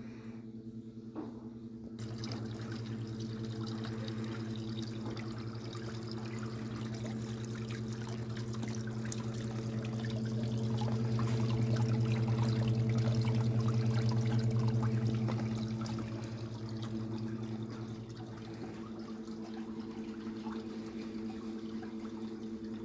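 Artificial rain from a special-effects rig: water spraying and pouring down in a steady wash over a steady low hum. The rain starts suddenly about two seconds in, swells to its heaviest midway, then eases back.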